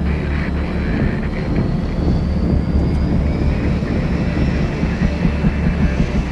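Helicopter running: a fast, steady rotor chop under a high turbine whine that rises slightly in pitch.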